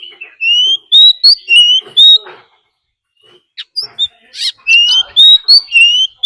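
Oriental magpie-robin singing its territorial fighting song: loud clear whistled notes, each sliding upward, in two quick phrases with a short pause between them.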